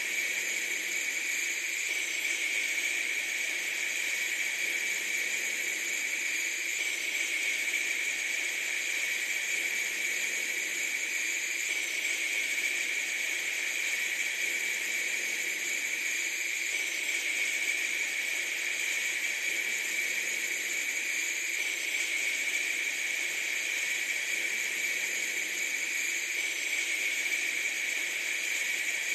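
Steady, even hiss, strongest in the upper range, that does not change, with a faint mark repeating about every five seconds.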